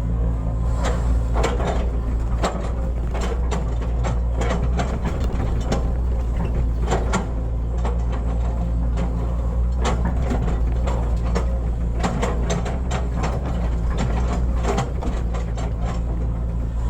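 Hitachi hydraulic excavator's diesel engine running steadily under work, with many irregular clanks and knocks over it throughout.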